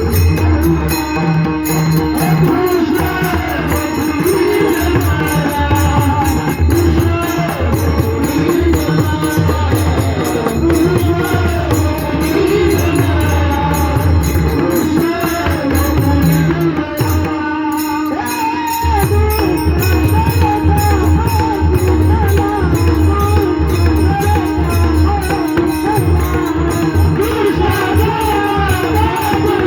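A singer's voice carrying a song over drum and jingling percussion that keep a steady beat.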